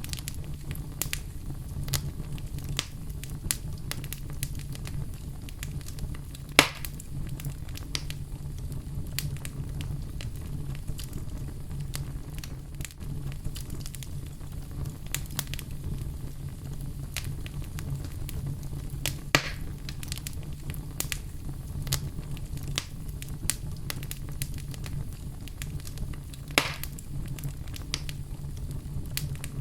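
Fire burning in a fireplace, crackling with a constant scatter of small snaps and three louder pops, over a steady low rumble.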